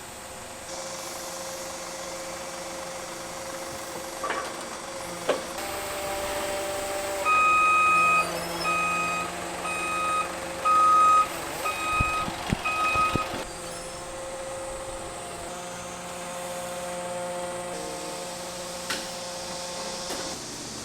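Factory machinery running with a steady hum. For about six seconds in the middle, an electronic warning beeper sounds over it in an even string of beeps, a little over one a second, with a few sharp knocks around it.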